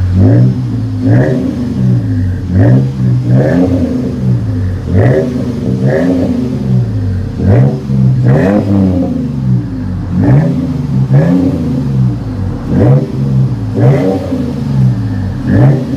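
2007 Toyota Tacoma's V6 running through a Flowmaster Super 40 split dual exhaust, revved in repeated quick throttle blips about once a second, each rising and falling back to idle.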